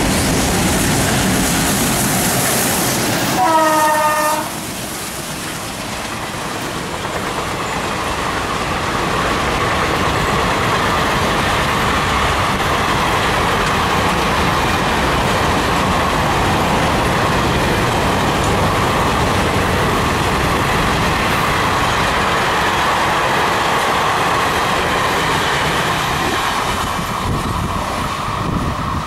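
An Indian Railways passenger train passing: the locomotive gives a short horn blast about four seconds in, then the train goes by with a long, steady noise of wheels on the rails that eases off near the end.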